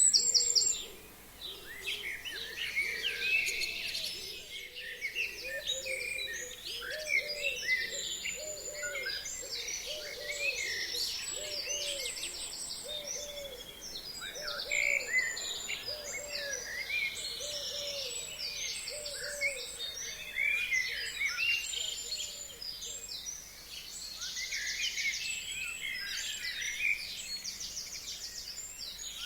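Chorus of forest songbirds, many overlapping songs, chirps and trills. Through the middle a lower hooting call repeats about once a second.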